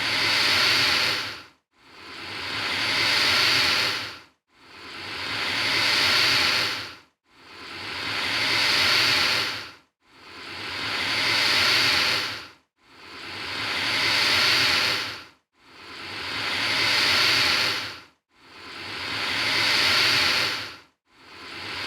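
Alligator hissing in long, breathy bursts that swell and then cut off, repeating at an even pace about every three seconds with short silent gaps between them.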